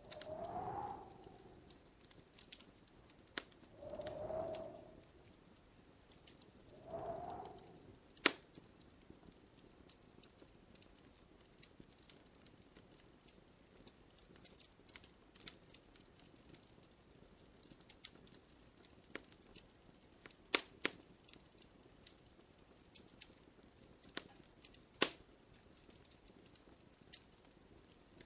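Wood fire crackling in a fireplace: a steady scatter of small crackles with a few sharp, louder pops, the loudest coming near the middle and toward the end. In the first seven seconds there are three short, low-pitched sounds, each about a second long and about three seconds apart.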